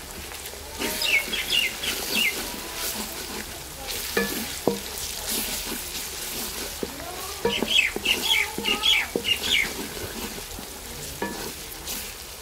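Onion-tomato masala sizzling in oil in a stainless steel karahi while a wooden slotted spatula stirs and scrapes it, with scattered knocks of the spatula against the pan. Birds chirp in two short spells, about a second in and again around eight seconds.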